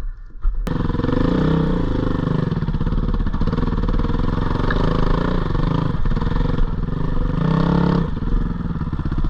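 Dirt bike engine running on a trail, its revs rising and falling with the throttle. It cuts in abruptly less than a second in.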